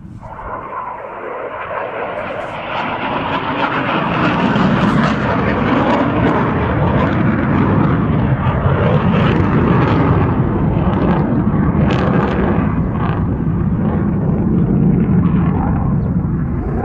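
F-16 fighter jet's engine noise from an aircraft flying overhead, building over the first four seconds and then staying loud and steady.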